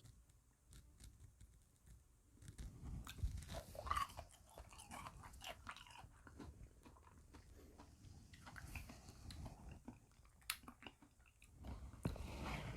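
Close-miked chewing and crunching of frozen bead ice cream, with irregular crackles and sharp clicks, loudest about three to four seconds in and again near the end.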